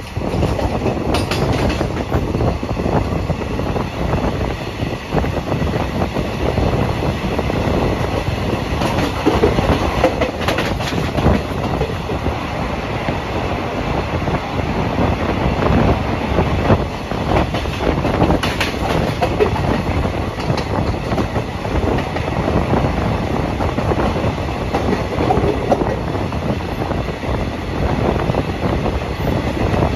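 Passenger train running, heard from on board: a steady rumble of coach wheels on the rails, with clickety-clack over the rail joints and a few sharper clacks.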